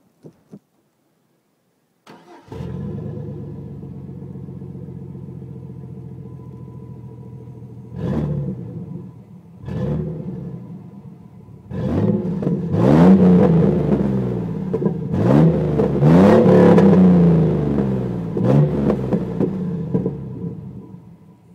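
2006 Chevrolet Silverado 4.3 L Vortec V6 exhaust through a single-in, single-out Flowmaster Super 44 muffler, dumped about a foot after it. The engine starts about two seconds in and idles, is blipped twice, then revved repeatedly with rising pitch, and drops back to idle near the end.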